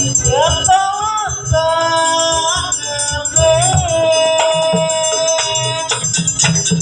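Jaranan Buto accompaniment music: a melody slides up into long held notes over repeated drum beats and ringing metal percussion.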